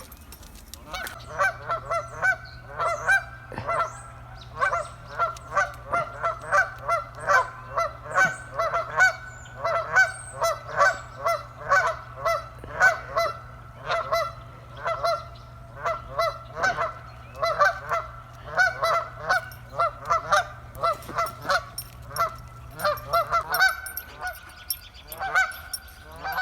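A flock of geese honking over and over, about two honks a second, easing off near the end.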